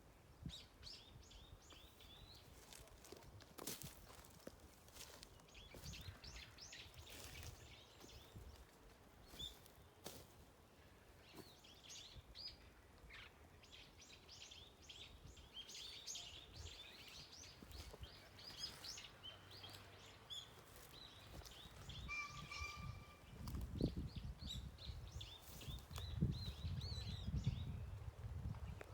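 Small birds chirping and twittering, many short high calls coming and going. A low rumble, like wind on the microphone, grows louder near the end.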